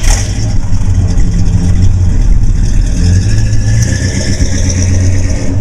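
Oldsmobile 455 V8 of a 1972 Cutlass running, loud and steady with a deep exhaust note.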